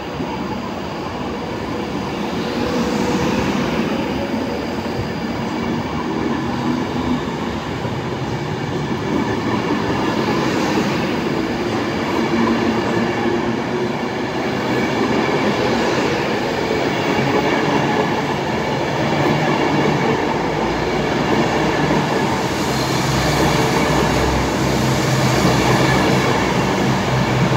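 An Avanti West Coast Class 390 Pendolino electric train running past: a steady rumble of wheels on rail, with a low hum growing a little louder in the last several seconds.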